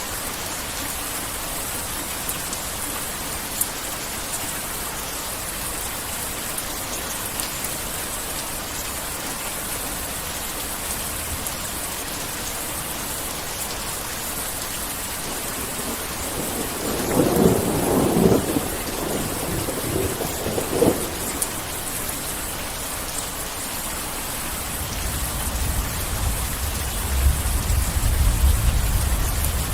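Heavy rain falling steadily, with a loud crack of thunder a little past the middle, a smaller one a few seconds later, and a deep rumble of thunder building near the end.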